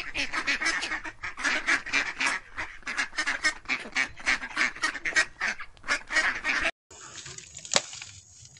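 Ducks quacking rapidly over and over, about three or four quacks a second, cutting off abruptly about seven seconds in. Faint trickling water follows, with a single sharp click.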